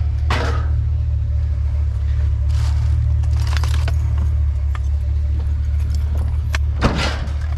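Truck engine running with a steady low drone, with light metallic rattles and clinks over it and a louder clatter about seven seconds in.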